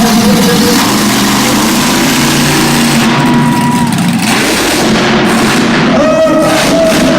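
Monster truck engine running loud and rough.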